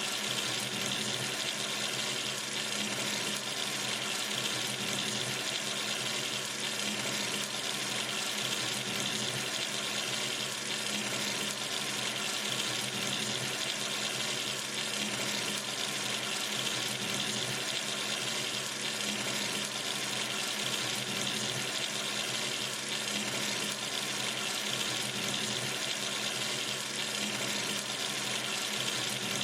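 Water running steadily from a sink tap, an even hiss that stays unchanged throughout.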